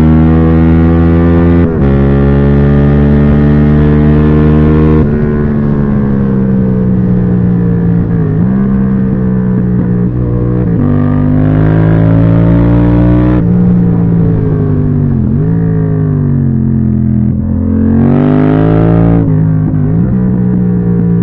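Yamaha MT-07's 689 cc parallel-twin engine under hard riding: the revs hold high, fall with gear changes and engine braking, and pick up again, with a quick rising rev near the end that cuts off sharply.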